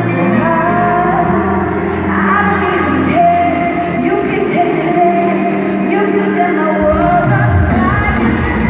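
Live pop song in an arena: a female lead vocalist singing a melodic line over a full band with sustained bass, recorded from the audience.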